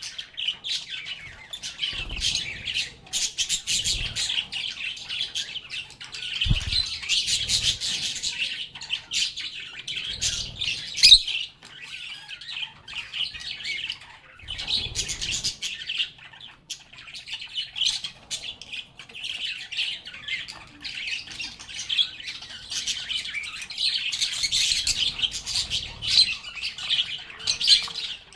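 A flock of lovebirds chattering in a continuous stream of rapid, high-pitched chirps and squawks, broken by a couple of short lulls. A few dull knocks sit underneath the chatter.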